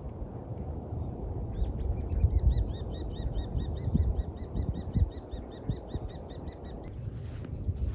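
A bird calling a fast series of short, repeated chirps, about four a second, over a low outdoor rumble. The chirping starts about two seconds in and stops near the end, where a few sharp clicks follow.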